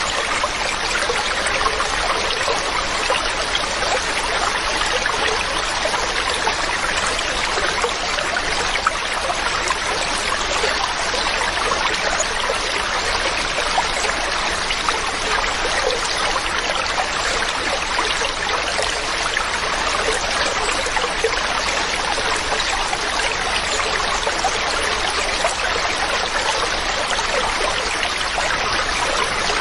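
Mountain stream running steadily over rocks, a continuous rushing and splashing of water.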